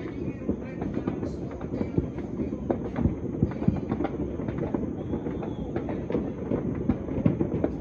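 Fireworks and firecrackers going off all over a city at once, heard from far off: a continuous low rumble of overlapping bangs and crackles, with frequent sharper pops standing out.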